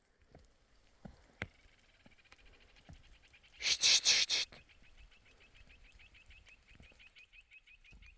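An animal calling: a long run of short, evenly spaced high chirps, about eight a second, with a loud, harsh burst of about a second near the middle.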